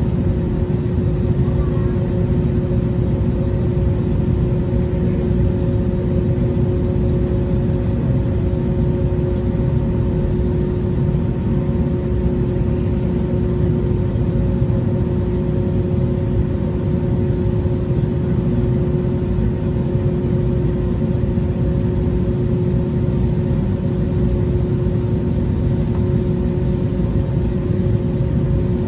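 Airbus A321neo engines and airflow heard from inside the cabin: a steady low rumble with a constant hum of a few held tones over it, unchanging throughout.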